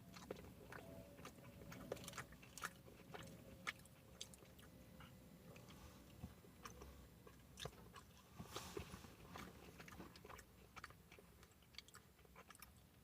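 Faint close-up eating sounds: a person biting and chewing a sauce-dipped chicken fry, with small wet mouth clicks and crunches scattered irregularly.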